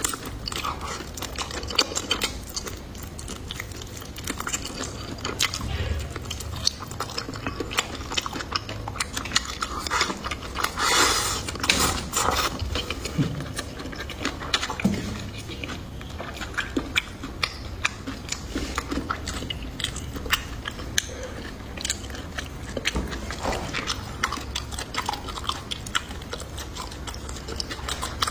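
A person chewing and biting food, with many small crunchy clicks and wet mouth sounds, and a louder noisy stretch about eleven seconds in.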